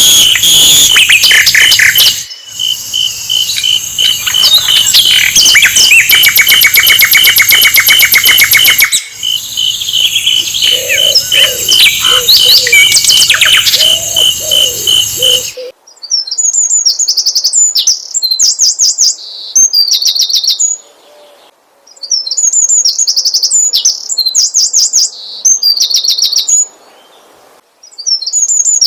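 Recorded song of a sikatan londo flycatcher: rapid, high chirping trills. In the first half they sit in a dense, layered mix over a steady pulsing whistle. About halfway it cuts suddenly to clean bouts of quick chirps, each a second or two long, with short pauses between them.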